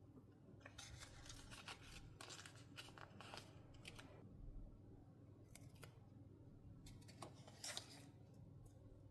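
Scissors cutting paper, quiet crisp snips in two runs, the first starting about a second in and the second about halfway through.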